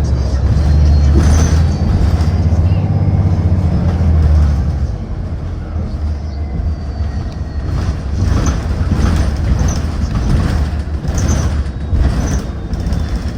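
City transit bus heard from inside the cabin: the engine and drivetrain run with a heavy low rumble that is loudest for the first four seconds or so as the bus pulls, then eases to a lower drone over road noise. Short bursts of noise come in the last few seconds.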